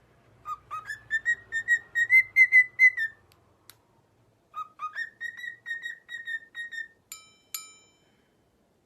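A parrot whistling a tune in two phrases, each starting with two lower notes and running on as a quick string of short, slightly wavering notes. Near the end come two short ringing strikes like a small bell.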